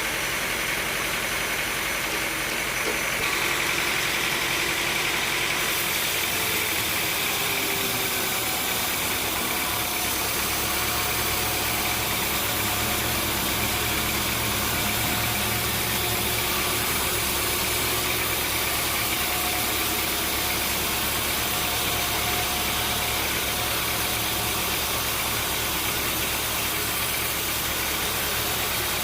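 Sawmill machinery running steadily, a constant engine-like drone and hiss that shifts abruptly in tone a few times in the first ten seconds, then settles into a steady low hum.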